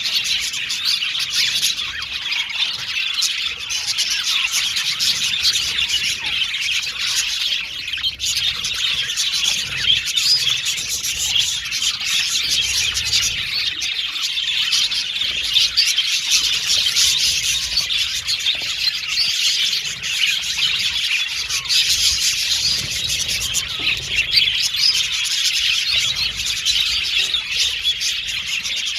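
A flock of budgerigars chattering and chirping together, many birds at once in a continuous dense twittering with no pauses.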